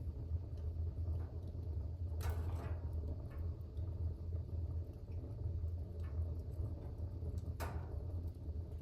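Fire burning in a fireplace: a steady low rumble with faint scattered crackles and two louder snaps, about two seconds in and again near the end.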